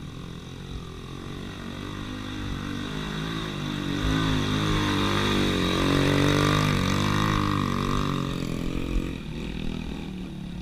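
A dirt bike's engine grows louder, is loudest about halfway through, then fades away, its pitch shifting near the middle, like a motorcycle riding past.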